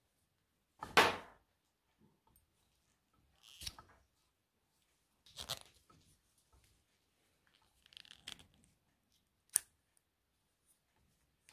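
Hands working a scooter's control cables and their rubber and plastic end caps: a few short rubbing and scraping handling noises, the loudest about a second in, and a sharp click near the end.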